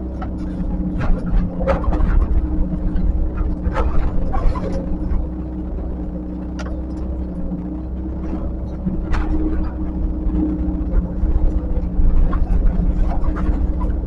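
Diesel engine of a heavy earthmoving machine running steadily under work, with irregular sharp knocks and clanks over it every second or two.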